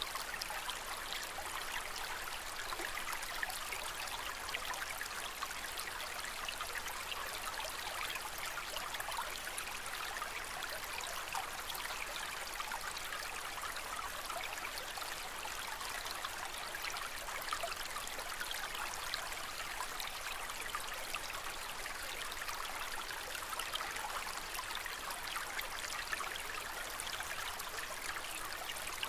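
Aquarium water trickling and splashing steadily, a constant fine bubbling patter with no change.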